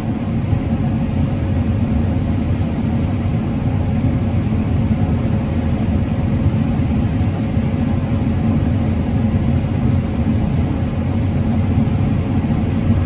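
Combine harvester running steadily while harvesting corn: a constant low rumble with a faint steady hum above it.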